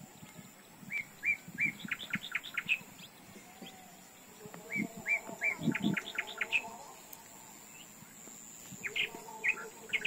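A songbird singing: twice, a phrase of a few short chirps running into a quick series of higher notes, about two seconds each, then a shorter snatch of song near the end.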